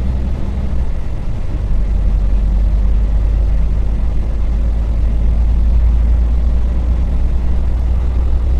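Dongfeng semi-truck's diesel engine running under way, a steady low drone heard from inside the cab; the drone eases briefly about a second in, then holds steady.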